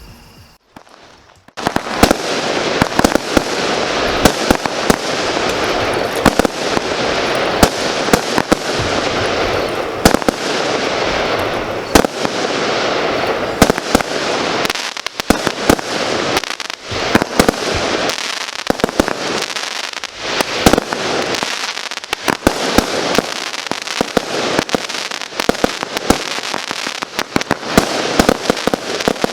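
Consumer fireworks firing in rapid, continuous succession: many sharp shots and bursts overlap with crackle. They start about a second and a half in.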